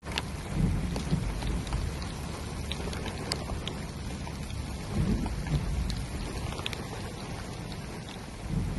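Rain falling steadily, with scattered sharp drop impacts ticking through it and low rumbles swelling about half a second in, around five seconds and again near the end.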